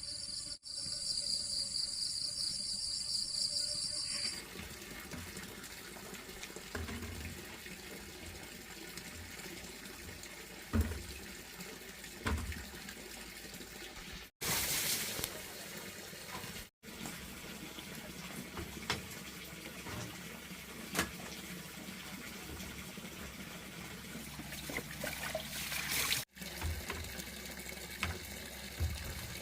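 Water running and splashing steadily, with scattered small knocks. Insects chirp for the first few seconds, and the sound drops out briefly three times.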